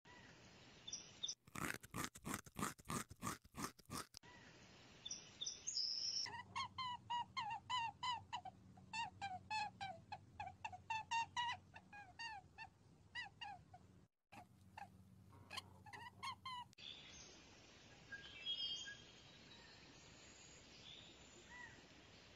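Small-mammal calls of a chinchilla and a rabbit: a quick run of clicking chatter, then a long series of short repeated chirping squeaks, then a second burst of clicking. Near the end they give way to quiet outdoor ambience with faint bird chirps.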